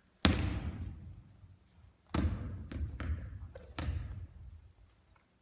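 A basketball striking and bouncing in a gym, the hits echoing: one sharp impact about a quarter second in, then four more in quick succession from about two to four seconds in.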